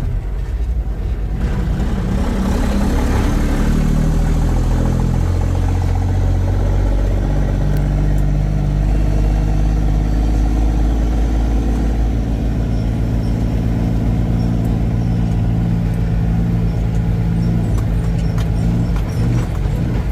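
Semi truck's diesel engine running while driving, with road rumble; the engine note changes pitch over the first several seconds, then holds steady.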